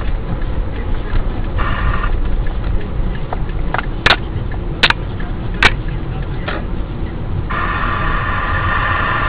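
Steady low rumble of a vehicle's engine and road noise, with several sharp clicks in the middle and a steady buzzing tone briefly near the start and again for the last couple of seconds.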